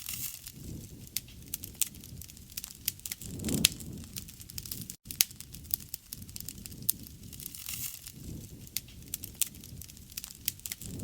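Wood fire burning, crackling with frequent sharp pops and snaps over a low rumble of flames; one louder pop comes about three and a half seconds in.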